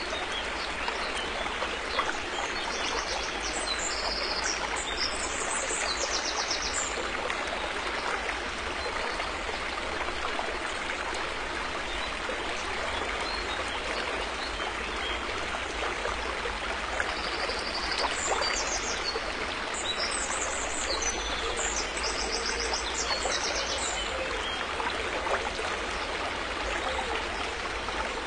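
River water flowing steadily over stones, an even rushing and babbling. High, rapid bird chirping comes in twice, a few seconds in and again about two-thirds of the way through.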